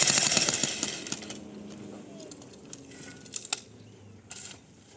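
An electric hammer drill (pikur) hammering in a short burst that fades out in the first second or so. A few sharp knocks and clinks follow.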